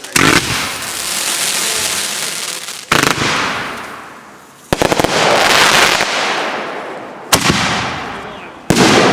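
Fireworks going off: about five sharp bangs a couple of seconds apart, one of them a quick cluster of pops a little before the middle, each bang trailed by a fading hiss.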